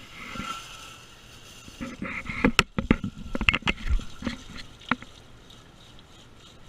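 Water splashing and trickling inside an air conditioner's outdoor unit, with a handful of sharp knocks from handling the unit through the middle.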